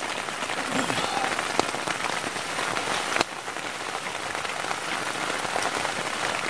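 Heavy rain falling steadily on the tent, a constant hiss with scattered sharper drop ticks.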